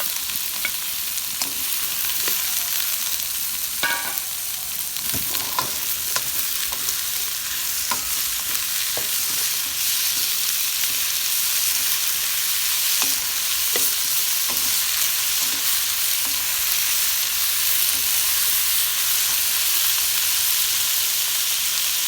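Vegetables and pineapple sizzling as they stir-fry in hot oil, a steady hiss, with a utensil knocking and scraping against the pan every so often as they are stirred.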